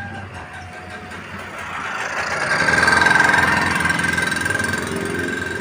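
Train passing the level crossing: engine and wheel noise swells to a peak about three seconds in, then eases off, with a steady high tone throughout.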